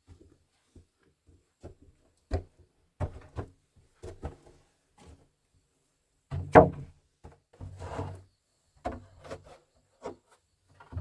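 Irregular knocks, taps and scraping of objects being handled, with the loudest knock about six and a half seconds in.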